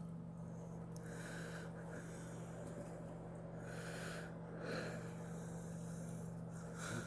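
Quiet room with a steady low hum and a few faint, short, soft puffs of breath-like sound.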